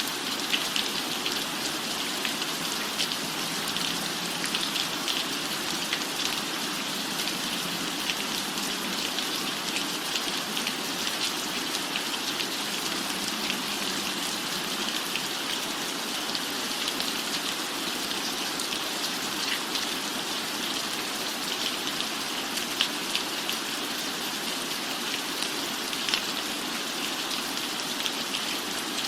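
Steady rain falling on a cabin roof: an even hiss thick with many small droplet ticks, unchanging throughout.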